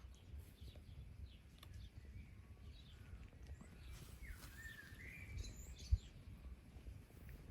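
Faint birdsong: a few short chirps and whistles, mostly in the second half, over a low wind rumble on the microphone. A single soft thump comes about six seconds in.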